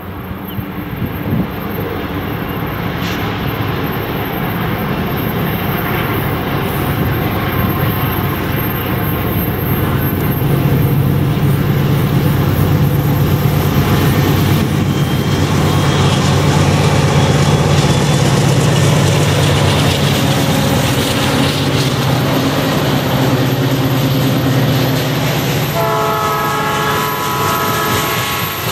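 Canadian National diesel freight locomotives passing with their engines running in a steady low drone, followed by freight cars rolling by on the rails. Near the end a chord of several steady tones sounds from a locomotive horn.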